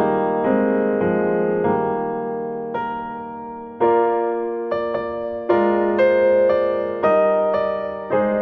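Slow, gentle piano or electric piano music: sustained chords struck about once every second and left to fade.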